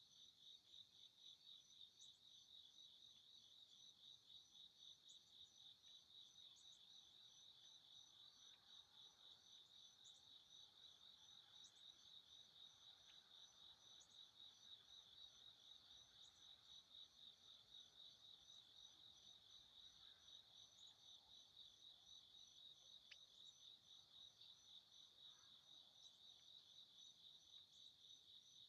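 Crickets chirping in a faint, steady, fast-pulsing high trill.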